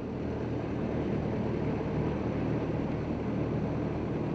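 Steady hum of a running vehicle engine with a rushing noise over it.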